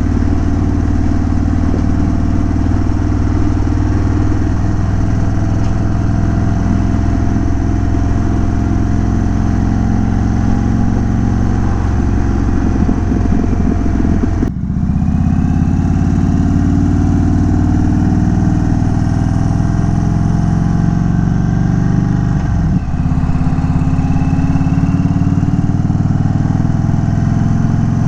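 A 2022 Indian Chief Dark Horse's Thunderstroke 116 V-twin running on the move through an unbaffled Dean Speed Rampage exhaust, its pitch rising and falling with the throttle. About halfway through the sound breaks off abruptly and picks up again at a different engine note.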